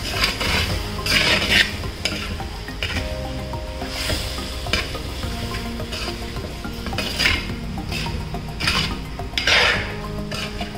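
Prawns sizzling as they are sautéed in masala, with a steel spoon stirring and scraping against the pot in short strokes several times.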